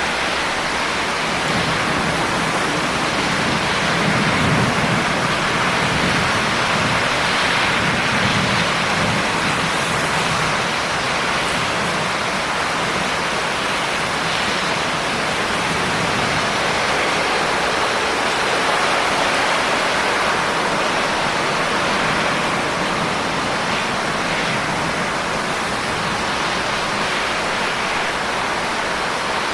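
Steady heavy rain, an even dense hiss of drops with a low rumble that swells a few seconds in.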